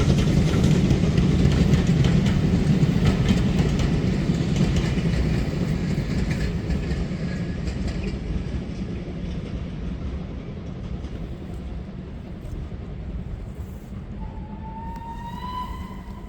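A train passing and receding, its wheels clicking over the rail joints, the noise fading steadily as it draws away. Near the end a brief, slightly rising tone is heard.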